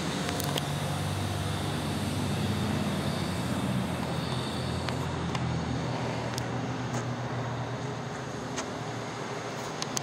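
A motor vehicle's engine running nearby, a low hum that is strongest over the first six seconds and then fades, with a few light clicks.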